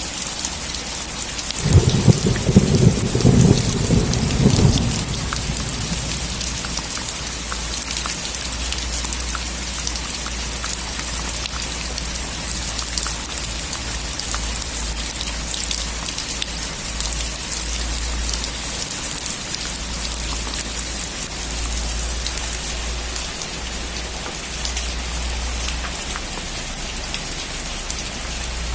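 Heavy rain drumming on a metal roof, with a clap of thunder rumbling loudly for about three seconds near the start.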